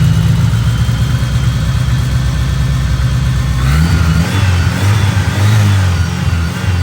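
A 1988 Mitsubishi Starion's turbocharged G54B four-cylinder engine, still cold, running through a freshly finished 3-inch turbo-back exhaust. It runs steadily, then from about four seconds in it is revved up several times, the pitch rising and falling.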